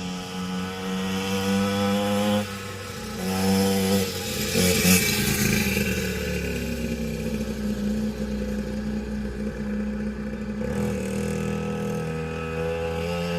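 Small two-stroke engine of a cheap weed-eater-style dirt bike running. It idles, revs up loudly about four to five seconds in, runs on steadily, and drops back to idle about eleven seconds in.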